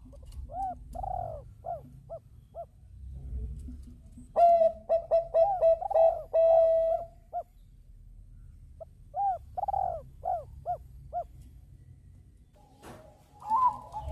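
Zebra dove (Bangkok perkutut) cooing: three phrases of quick, arching coos, the middle phrase the loudest. A low rumble sits underneath.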